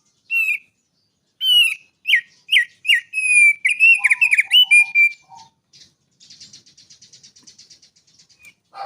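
A songbird singing: a run of loud, hooked whistled notes, then after a short pause a fast, buzzy trill near the end.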